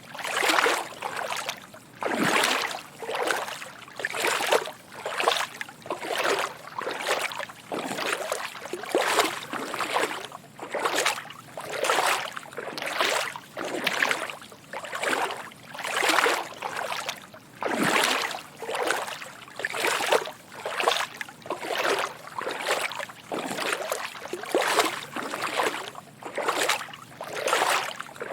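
Footsteps wading through shallow water: a steady rhythm of soft sloshing splashes, roughly one to two steps a second.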